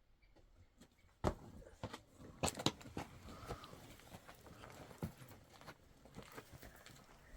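A few scattered knocks and clicks at uneven intervals, the loudest a little over a second in and around two and a half seconds in, over faint background noise.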